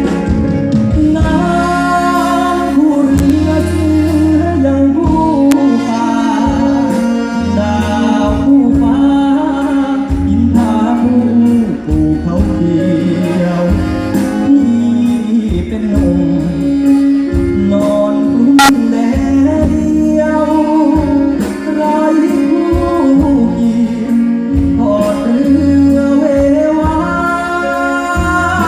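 A solo singer performing a slow Thai song, backed by a live band with a steady bass line under the vocal melody.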